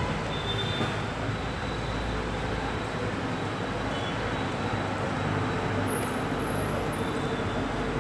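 Steady low rumble of vehicle noise beside a railway line, as the tail end of a diesel express train moves away down the track.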